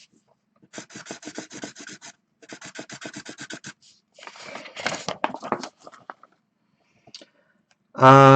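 Quick scratching, rubbing strokes, about ten a second, in two runs of a second or so each, then a longer scratchy rustle.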